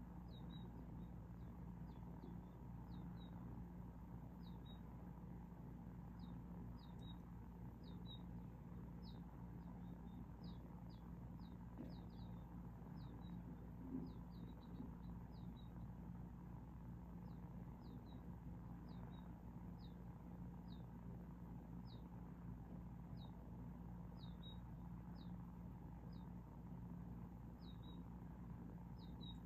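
Faint, scattered cheeps of finches and sparrows at a feeder: many short, quick downward chirps, often in twos or threes, over a steady low hum, with a soft thump about halfway through.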